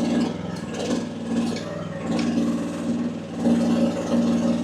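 AGT WH12R mini excavator's engine running under hydraulic load as its functions are worked, with its relief valve set low at about 1900 PSI. The engine holds speed without stalling, and the strain rises and falls in stretches of about a second as each movement is made, with a few clanks.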